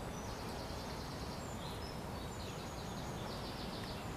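Songbirds singing over a steady outdoor hiss: a quick high trill about half a second in, then a run of rapid repeated high notes in the second half.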